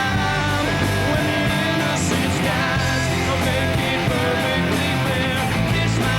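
Rock band playing with electric guitars, a song's instrumental section before the vocals come in.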